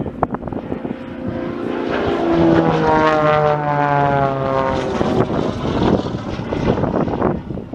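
Propeller-driven light aircraft flying past, its engine and propeller drone growing louder, then dropping in pitch as it passes and fading away.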